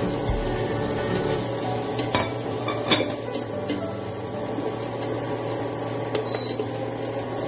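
Diced hotdogs sizzling in a nonstick frying pan as a slotted spatula stirs them, with a few sharp knocks of the spatula on the pan about two and three seconds in.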